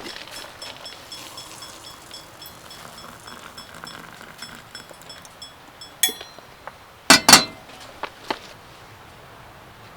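Light metallic ticks at about two or three a second, fading out around five seconds in, then a clink and a couple of louder knocks about seven seconds in, followed by a few small clicks.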